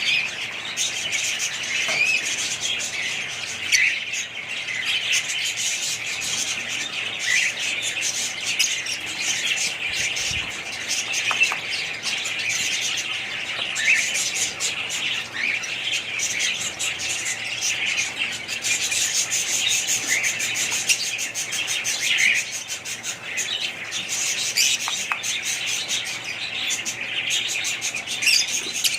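Many small birds chirping and chattering at once, a dense overlapping chorus of short high chirps and whistles that never lets up.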